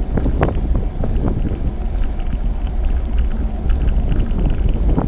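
Wind buffeting an action camera's microphone on a moving bicycle, a steady low rumble with a few brief knocks.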